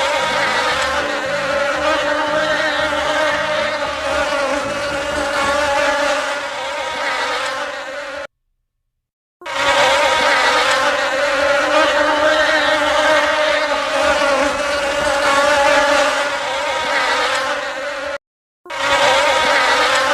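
Steady buzzing whine of a flying insect's wings. It cuts off abruptly about eight seconds in, returns after a second, and drops out again briefly near the end.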